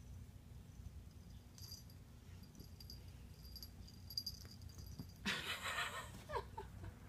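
Kittens playing and scampering: faint light clicks and patters, then about five seconds in a short breathy rush of sound followed by a few brief squeaks.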